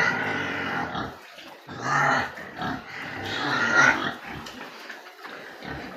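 Pigs squealing in a pen: a long squeal at the start, a shorter one about two seconds in, and a loud rising squeal around the four-second mark, then quieter calls.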